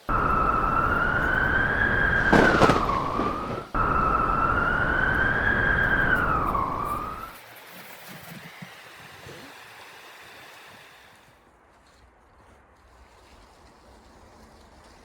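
Wind howling with a wavering whistle over a loud rush of noise. It breaks off briefly about four seconds in, then drops away after about seven seconds to faint wind.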